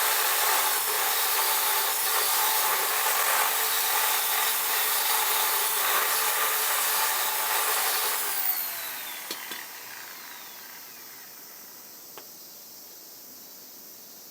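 A power tool running steadily at high speed, then switched off about eight seconds in and spinning down with a falling whine.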